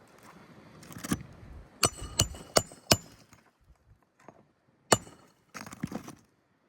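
Roofing tools working on asphalt shingles: four sharp metal-on-metal strikes in quick succession, then one more a couple of seconds later, with scraping and rustling of shingle material around them.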